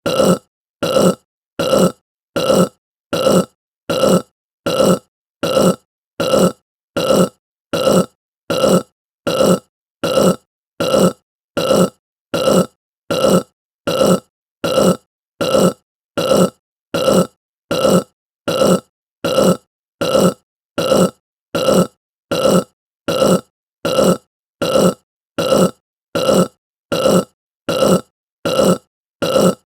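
A person's short burp, repeated over and over at an even pace of about three burps every two seconds, each one alike.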